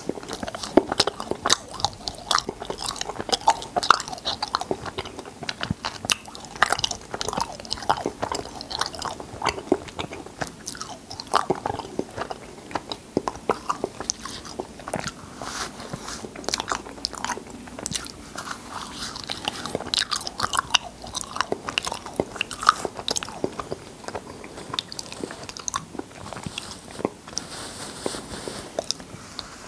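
Close-miked eating of cotton candy: chewing and wet mouth sounds as the sugar floss melts, with many quick, irregular clicks and crackles throughout.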